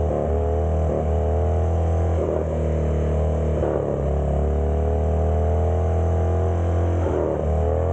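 Harley-Davidson Dyna's V-twin engine running hard, its pitch climbing and then dropping back about four times over a steady deep drone.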